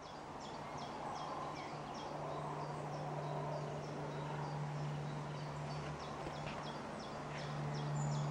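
Small birds chirping in woodland: a quick run of short, high, falling chirps repeating a few times a second, over a faint steady low hum.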